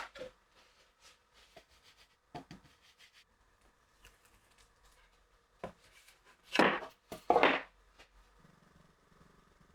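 Wooden pieces being handled: scattered light knocks and clicks, then two louder scraping strokes close together about two-thirds of the way through.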